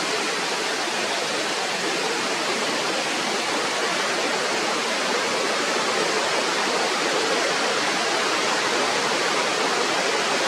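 Steady, even rushing noise, unbroken throughout, like running water.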